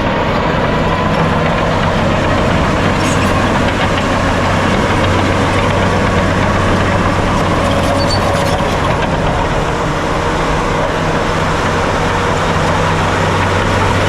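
Heavy diesel earthmoving machinery running steadily, a deep engine drone with a higher whine over it.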